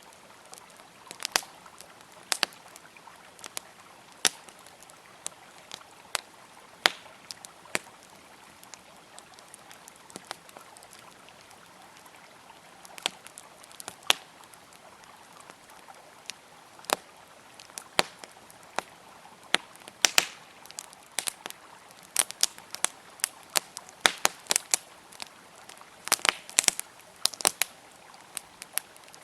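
Campfire crackling with sharp pops, a few seconds apart at first and coming thick and fast in the last third, over the faint steady rush of a flowing river.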